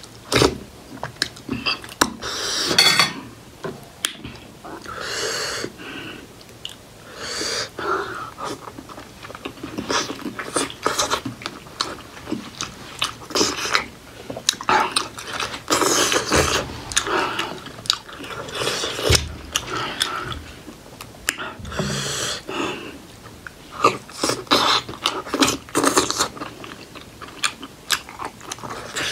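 Close-miked eating sounds of steamed buffalo-meat momos with spicy achar: wet chewing, lip smacking and finger licking in irregular bursts of small clicks.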